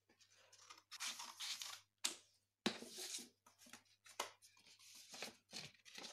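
A sheet of paper being cut, trimming off the spare strip left after folding it into a triangle. It comes as a run of irregular papery rasps, with a couple of sharp snaps a little after two seconds in.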